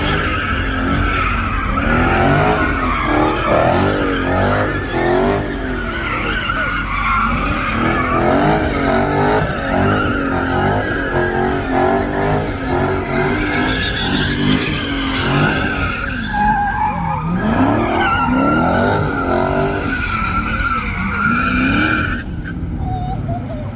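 A car doing a burnout or donuts: the engine revs up and down over and over while the rear tires squeal continuously. The squeal stops about 22 seconds in.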